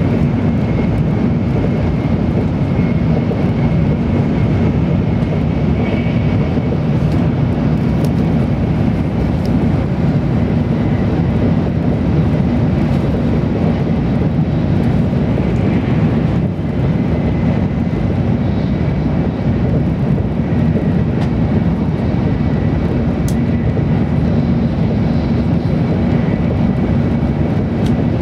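Steady cabin noise of an N700 series Tokaido Shinkansen train running, heard inside a passenger car: a constant low rumble from the running gear and rails, with a faint steady high tone above it.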